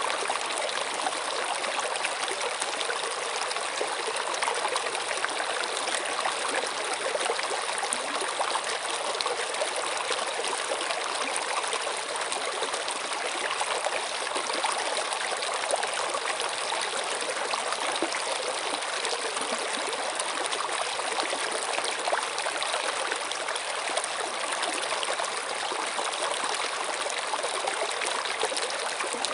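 Water flowing steadily in an even, unbroken rush with fine trickling detail.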